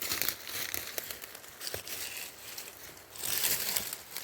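Rustling and crackling of dry leaves and twigs on the forest floor, with scattered small snaps, louder near the end.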